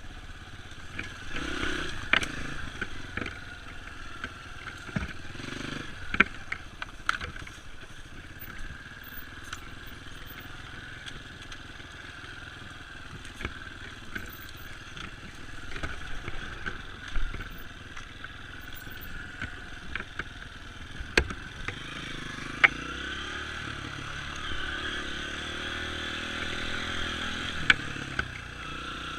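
Dirt bike engine running, with scattered sharp knocks and clatter. The engine pitch rises and falls a few times near the end.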